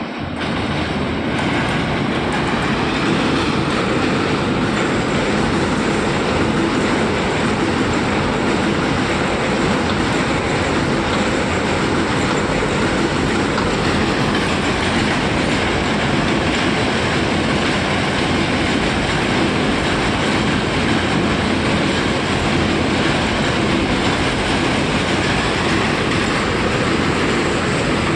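Container freight train rolling past close by: the steady noise of its wagons' wheels running on the rails, growing louder over the first couple of seconds and then holding even.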